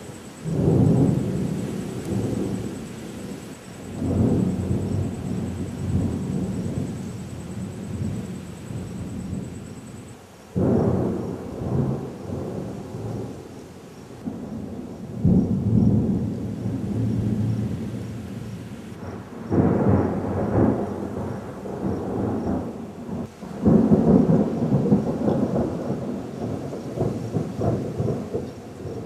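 Thunder from a monsoon thunderstorm: a series of low, rolling peals, each beginning suddenly and rumbling on for several seconds. The largest peals come about half a second in, about ten seconds in, and twice near the end.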